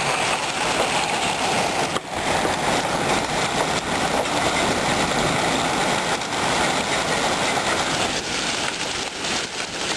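Hailstones and heavy rain pelting down on surfaces and trees, a dense, steady popping like popcorn.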